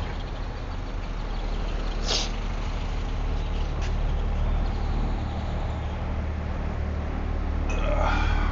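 Box truck engine running with a steady low drone under road noise. A brief hiss comes about two seconds in, and a short pitched sound near the end.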